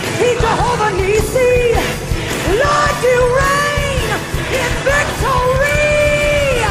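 Gospel singing with a band: one strong voice belts and bends long notes, the longest held near the end, over drums and bass.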